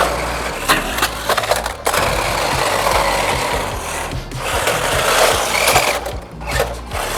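Cheap toy-grade RC drift cars running, their small motors and plastic gears whirring and grinding, with scattered clicks and knocks.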